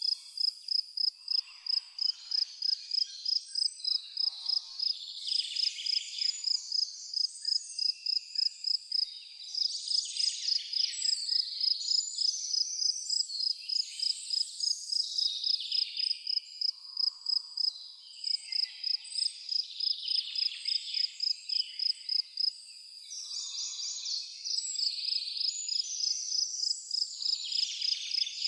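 A cricket chirping steadily, about three pulses a second, pausing briefly near the end, with birds singing varied phrases over it.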